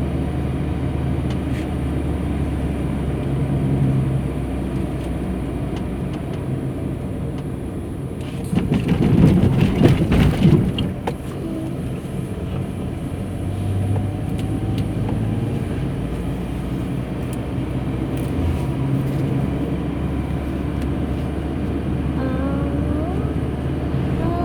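Steady road and engine rumble heard from inside a moving car, with a louder rushing swell lasting about two seconds roughly nine seconds in.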